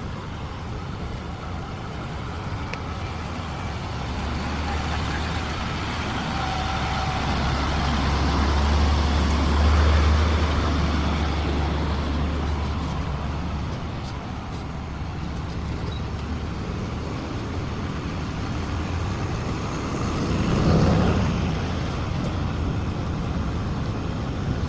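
Heavy truck engine running with a low rumble that builds to a peak about ten seconds in, eases off, then swells briefly again near the end.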